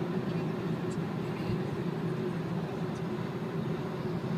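Steady tyre and wind noise heard inside a Nissan Leaf electric car cruising at just over 70 mph.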